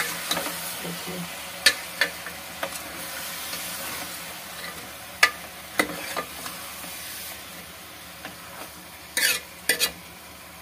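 Chicken pieces sizzling as they fry in a large metal pot, a steady hiss, while a steel spoon stirs them, scraping and knocking against the pot several times, the loudest knocks near the end.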